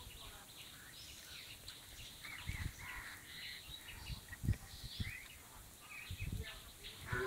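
Birds chirping and calling in short scattered notes, with a few brief low thumps, the strongest about halfway through.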